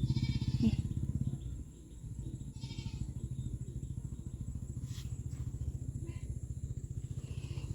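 A steady low rumble with a rapid, even pulse, with two short higher-pitched calls over it, one at the start and one about two and a half seconds in.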